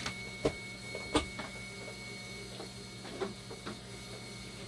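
Sharp clicks and knocks of dialysis machine parts being handled and fitted back into place, the two loudest about half a second and a second in, then a few fainter ones. Underneath runs a steady low electrical hum and a faint high whine.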